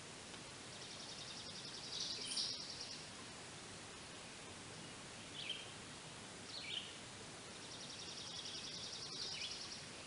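A small songbird singing a rapid, high trill of about two seconds, twice, with two short falling chirps in between, over a steady outdoor hiss.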